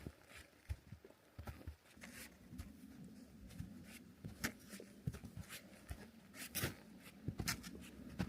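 Footsteps crunching on frozen snow and forest floor, an irregular run of sharp crunches and clicks. A low steady rush comes in about two seconds in.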